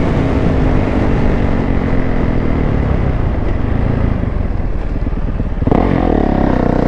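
Dirt bike engines running on the move, with wind rushing over the helmet camera. The engine note eases down over the first few seconds, and about five and a half seconds in another engine note comes in and wavers as it revs.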